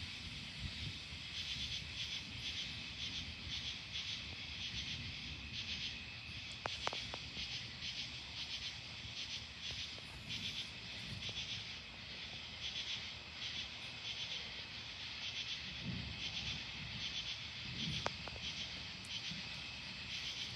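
Night insects, crickets or katydids, chirping in a steady pulsing chorus at about two pulses a second, over a low rumbling background.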